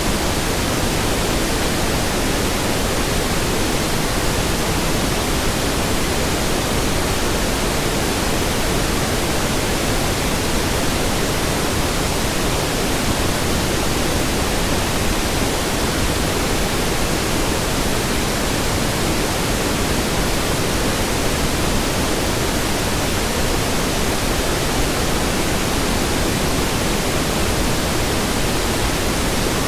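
Steady pink noise: an even hiss spread across all pitches, with no change in level.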